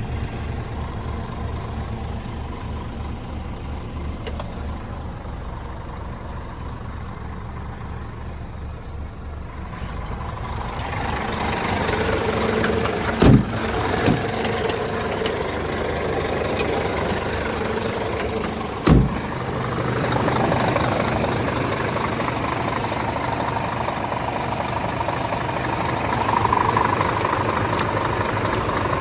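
Scania R410 truck's diesel engine idling with a steady low pulse, growing louder and noisier about ten seconds in. Two sharp knocks sound about halfway through, a few seconds apart.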